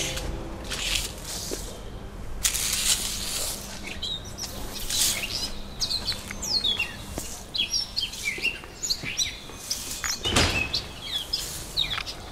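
Small birds chirping repeatedly, many short, quick, falling chirps, with rustling noise in the first few seconds and one dull thud about ten seconds in.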